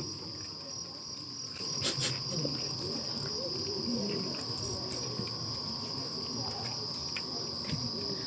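Steady, high-pitched chorus of rainforest insects, with faint murmuring voices beneath it and a couple of small clicks about two seconds in.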